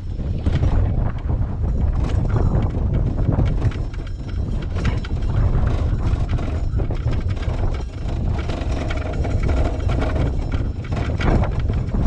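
Strong gusting wind buffeting the microphone in a heavy, uneven rumble, with irregular knocks and clatter.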